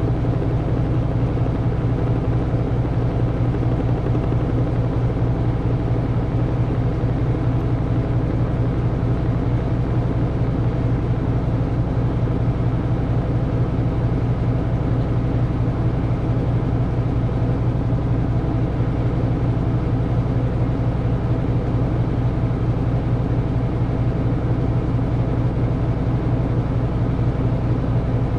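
Samsung washing machine's drum spinning at high speed in its long final spin cycle: a loud, steady hum that does not change.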